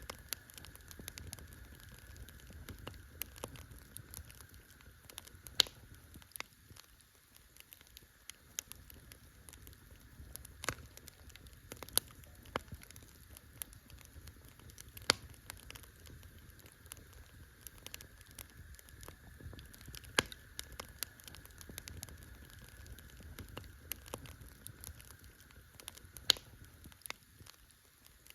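Wood campfire crackling, with irregular sharp pops and snaps and a louder one every few seconds.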